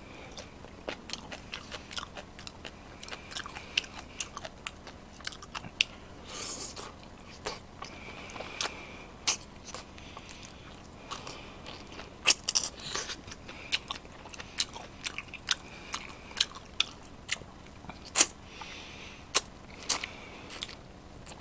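Close-miked chewing, with many sharp wet mouth clicks and smacks scattered irregularly: a person eating spicy braised chicken and rice with chopsticks.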